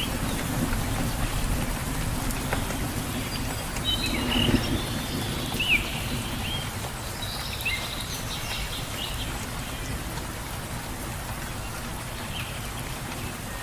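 Steady rain falling in a forest, with a few short bird chirps about four to eight seconds in.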